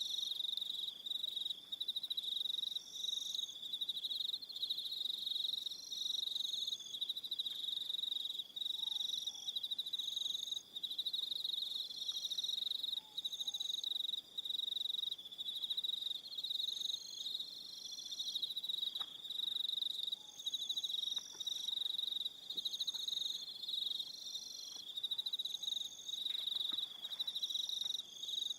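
Crickets trilling in a dense, steady high-pitched chorus, with a second, higher chirp repeating about every two seconds over it.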